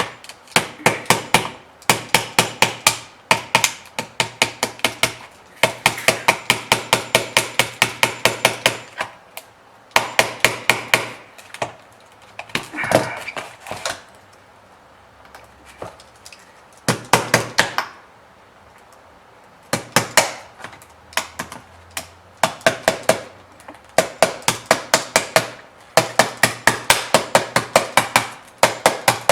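Hammer tapping a blade along the sealed seam of a car tail light, working the blade into the join to break the factory seal. Quick runs of sharp taps, several a second, broken by short pauses.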